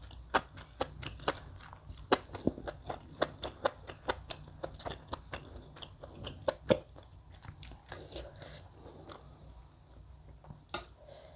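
A person chewing a mouthful of rice and goat meat in broth close to the microphone: quick, irregular wet mouth clicks and smacks, thinning out after about eight seconds.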